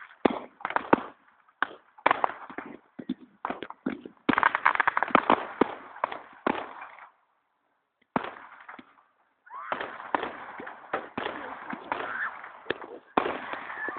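Fireworks going off: many sharp bangs and rapid crackling pops in irregular clusters, with two brief gaps of silence past the middle.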